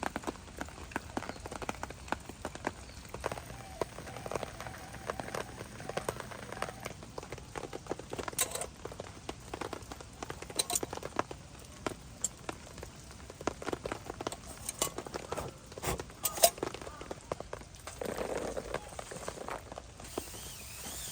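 Raindrops pattering, an irregular run of sharp ticks and knocks over a soft steady hiss of rain.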